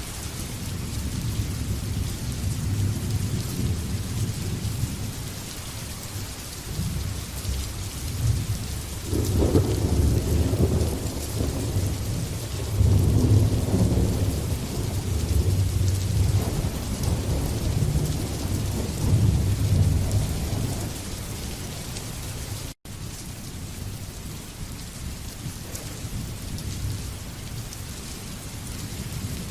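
Steady rain hissing with rolling thunder. The low rumbles swell about a third of the way in and die away after about two-thirds, with the whole sound cutting out for an instant around that point.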